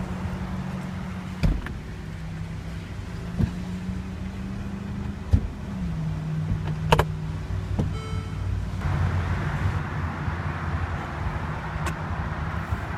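Electro-hydraulic motor of the Mercedes-Benz SL550's power hardtop running with a steady whine, broken by several clunks as the mechanism moves. The pitch drops about halfway through, and a short electronic chime sounds near the end.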